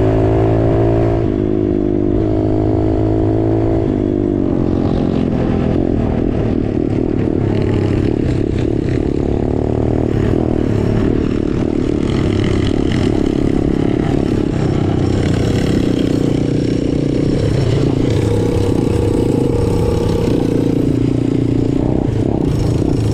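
Straight-piped small-displacement motorcycle engine running while riding. Its pitch slides and shifts in steps over the first few seconds, then turns rougher and keeps rising and falling.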